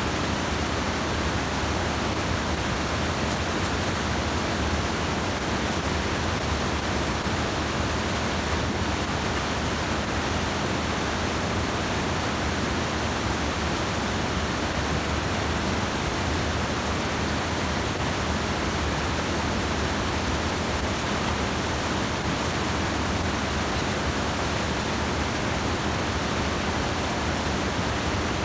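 Steady, even rush of stream water flowing.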